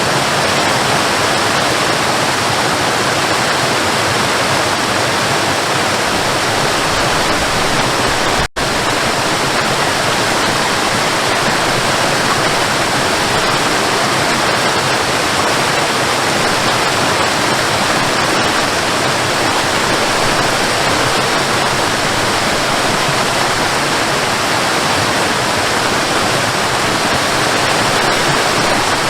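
Waterfall: a steady, loud rush of falling water, with a momentary break in the sound about eight seconds in.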